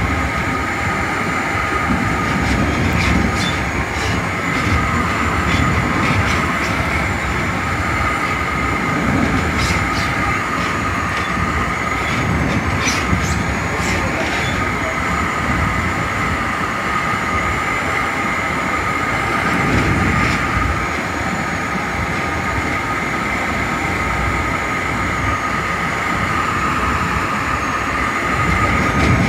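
Metra commuter train running at speed, heard from inside the leading cab car: a steady rumble of wheels on rail with a constant high whine and scattered sharp clicks.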